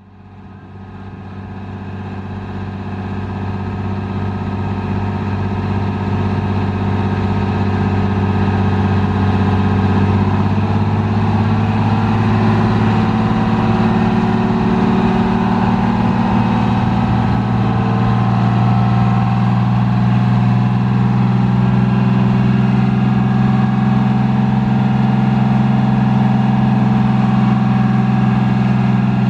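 Detroit Diesel 6V92TA two-stroke V6 diesel in a 1982 MCI MC-9 coach, running steadily. The sound fades in over the first few seconds, and the pitch creeps up slightly near the middle.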